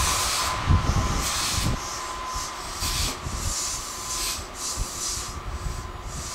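Train noise on the rails fading away: a rhythmic rushing hiss about twice a second over a low rumble, with a few thuds.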